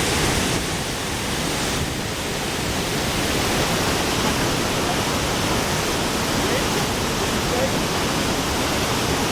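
The Krimml Waterfalls, a steady, even rush of falling water.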